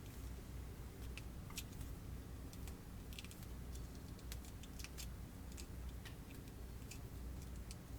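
Light, irregular plastic clicks and taps from handling a Kracie DIY candy kit's plastic tray and tools, a few per second, over a steady low hum.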